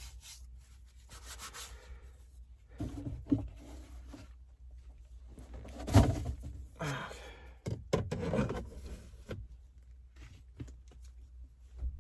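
Cooking gear being handled and wiped: intermittent rubbing and scraping with a few knocks and clicks. The loudest is a single thump about halfway through.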